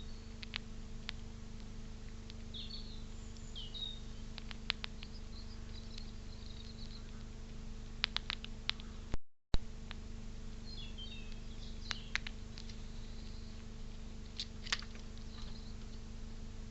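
Small birds chirping intermittently over a steady electrical hum, with scattered sharp clicks, a quick cluster of them about eight seconds in. The audio cuts out for a moment about nine seconds in.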